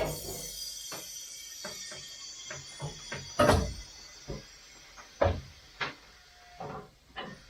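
Irregular knocks and clunks of equipment being handled and set down in a garage, about ten in all, the loudest about three and a half and five seconds in, with a high hiss fading out over the first few seconds.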